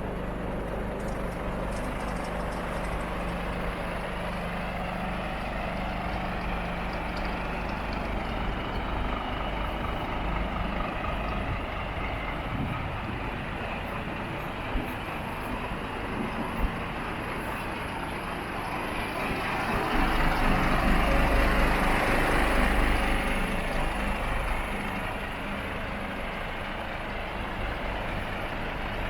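Scania R460 truck with a DC13 460 hp engine driving along, a steady engine and road rumble. The rumble grows louder for a few seconds about two-thirds of the way in, then eases back. Two short clicks are heard around the middle.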